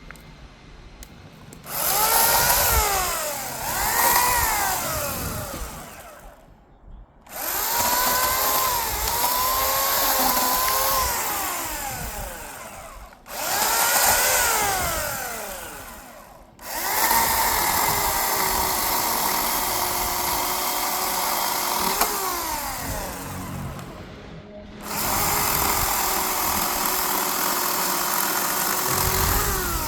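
Electric chainsaw cutting a tree trunk log in five runs with short pauses between them. The motor whine rises as it spins up and sags as the chain bites into the wood.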